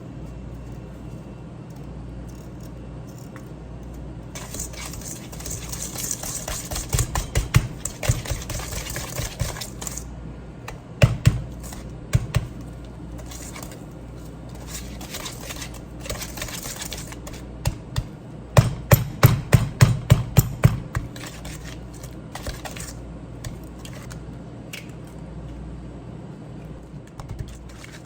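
Rapid clinking and tapping of kitchen utensils against dishes and containers, in two busy runs of sharp strokes a few per second, over a steady low hum.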